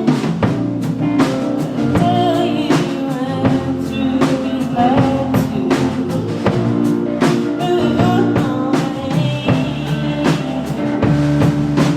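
Live rock band playing a song: a drum kit keeping a steady beat under guitar and other band instruments, with a singing voice.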